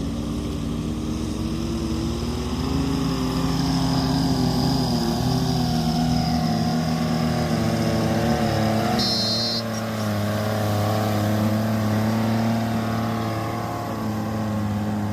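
Volvo 210 excavator's diesel engine running under working load, its pitch rising and falling as the hydraulics dig and swing. A brief high-pitched sound cuts in about nine seconds in.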